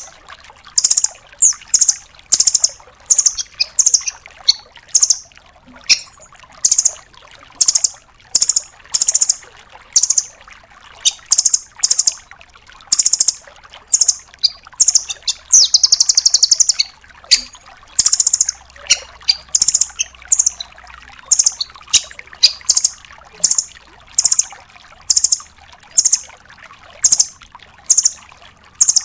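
Velvet-fronted nuthatch calling: a long series of short, high, sharp trilled notes, roughly one or two a second, with one longer buzzing rattle about halfway through.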